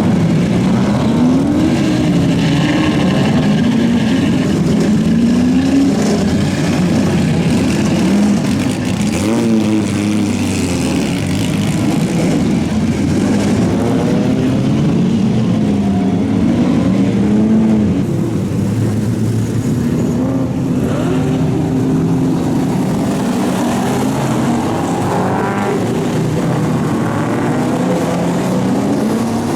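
Several race car engines revving hard and changing gear as the cars go by, their pitch repeatedly climbing and dropping, with more than one engine heard at once.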